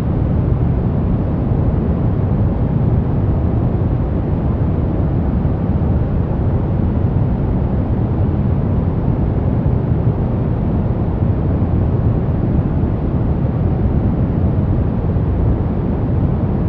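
Steady, unchanging noise track of the white-noise kind, made for sleep and focus. It is heaviest in the low end, a deep even rush rather than a bright hiss, with no events or changes.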